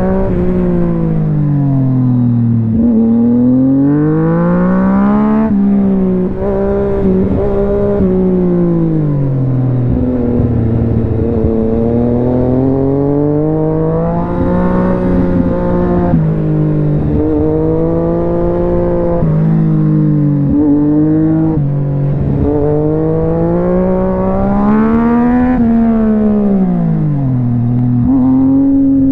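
Yamaha MT-09's three-cylinder engine running hard, its pitch rising and falling over and over as the bike accelerates and slows, with several sudden drops in pitch.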